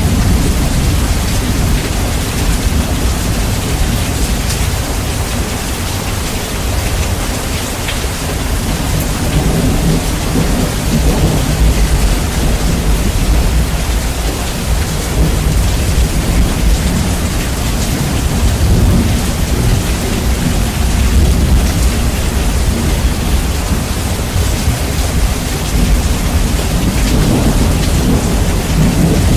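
Steady heavy rain with a deep, rolling thunder rumble that swells and eases, heavily bass boosted and loud.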